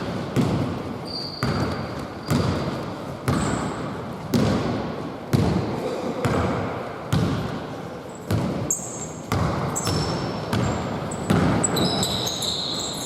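A basketball being dribbled on an indoor court, about one bounce a second, each bounce ringing briefly in the hall, with short high sneaker squeaks in the second half.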